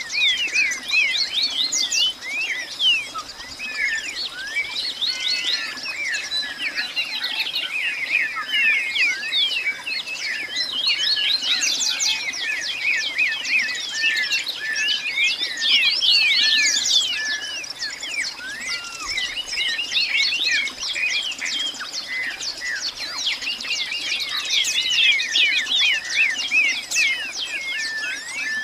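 A dense chorus of many birds chirping and calling at once, short overlapping chirps and quick whistled sweeps without pause, with a faint steady high-pitched tone underneath.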